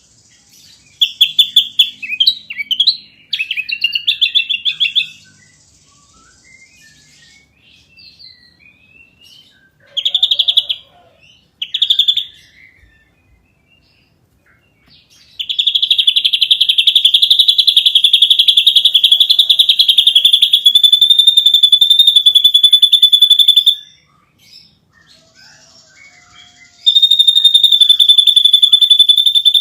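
Ashy drongo singing. It gives a few short, varied whistled phrases, then a long, very fast rattling trill lasting about eight seconds. A second trill starts near the end.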